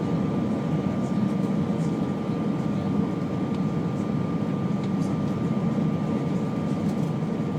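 Steady cabin noise inside an Airbus A319: a constant low rush of engines and airflow, with a thin steady whine above it.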